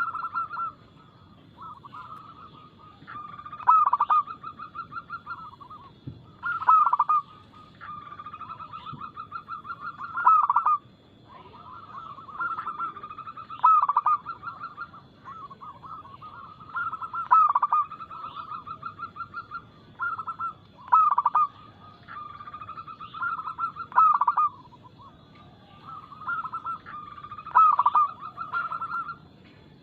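Zebra doves (perkutut) cooing: rapid trains of short, pulsed coos, each phrase ending in a few louder accented notes, repeating about every three to four seconds.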